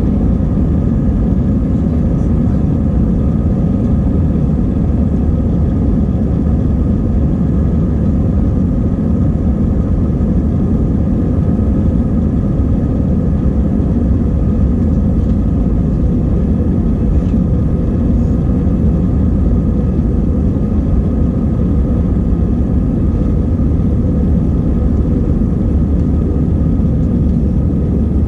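Airbus A320's twin jet engines at takeoff power: a loud, steady rumble with faint steady tones above it.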